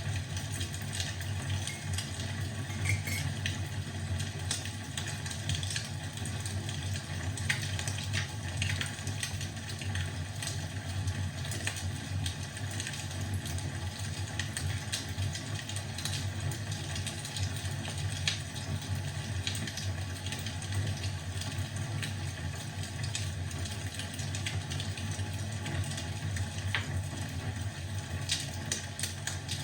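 Wood fire crackling in a fireplace: a steady low rumble of flames with frequent small pops and snaps scattered throughout.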